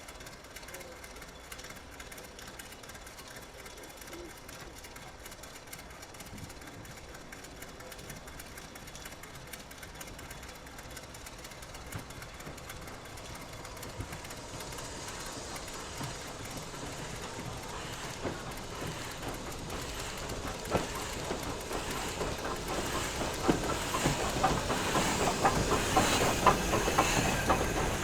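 A train approaching, growing steadily louder, its wheels clicking over the rail joints more and more in the last several seconds.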